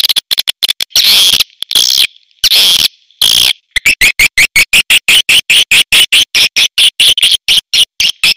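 Swiftlet calls: a few harsh, buzzy chirps, then from about four seconds in a fast, even run of short chirps, about five a second. This is a swiftlet call recording of the kind played to lure swiftlets into a nest house.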